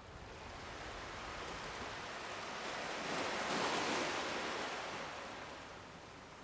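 Sea waves on a shore: the surf swells, peaks about halfway through, then washes back and fades.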